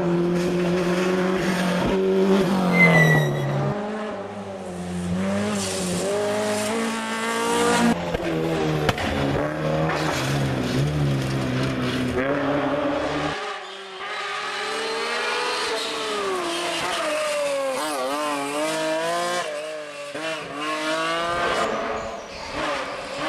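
Historic rally cars driven flat out on a stage, one after another: engines revving hard and dropping back through gear changes, with some tyre squeal. The engine note rises and falls quickly many times, and the sound changes abruptly twice as one car gives way to the next.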